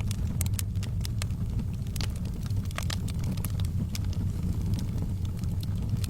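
Wood fire burning in a fireplace: irregular sharp crackles and pops of the burning wood, several a second, over a steady low rumble of the flames.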